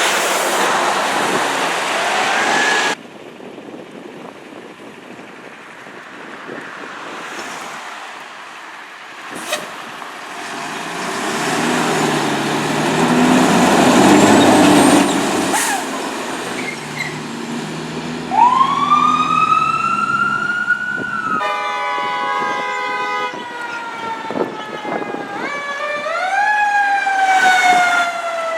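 A fire truck passing on an emergency response: its diesel engine rumbles past, then its electronic siren wails up and down. About three-quarters of the way through, a steady horn blast sounds, followed by fast siren sweeps.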